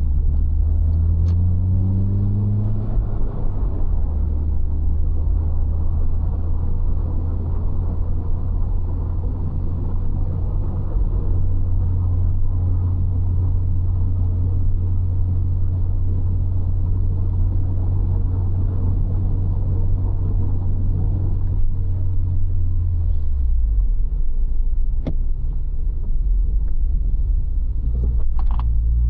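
A 1995 Citroën XM car driving, engine running with road rumble. The engine note climbs as it accelerates near the start, holds steady, then drops about three-quarters of the way through and picks up again near the end.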